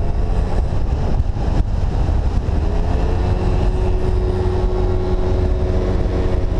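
Yamaha Zuma 50cc scooter engine running under throttle, its pitch rising a little partway through and then holding steady, with wind rushing over the microphone. The rider feels the scooter is acting funny and has no power.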